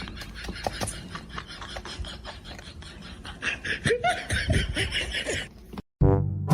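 Scattered clicks and rubbing, then a stretch of laughing about three and a half seconds in. After a sudden cut to silence, brass music starts at the very end.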